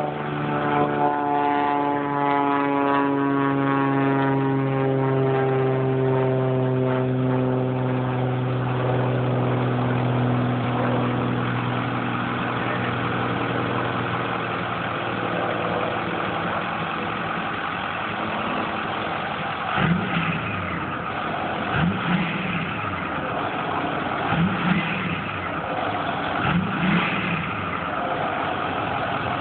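Truck engine running with a steady drone that slowly drops in pitch, then a series of short throttle blips roughly every two seconds in the second half.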